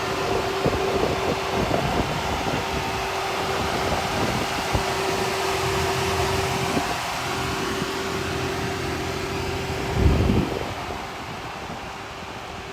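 Steady road and wind noise of a car driving, with a constant hum. A single heavy low thump comes about ten seconds in.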